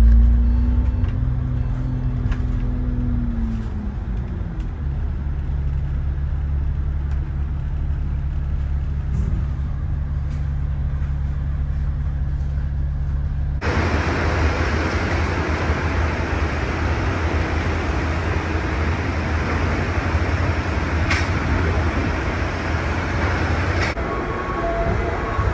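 Ride noise aboard a double-decker in traffic: a low engine hum that drops in pitch a few seconds in and then holds steady. About halfway through it switches suddenly to louder, hissier road and rattle noise, with a single click near the end.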